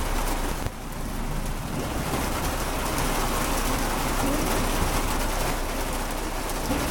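Heavy rain drumming on a car's roof and windshield, heard from inside the car as a steady hiss, with a brief drop in loudness about a second in.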